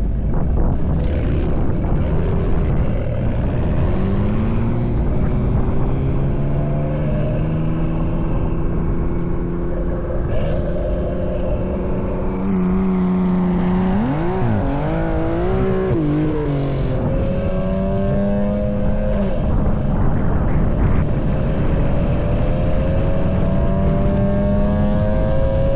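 Turbocharged BMW straight-six engine at full throttle in a roll race. Its note climbs steadily and drops sharply at upshifts about twelve and nineteen seconds in, over heavy wind and road noise.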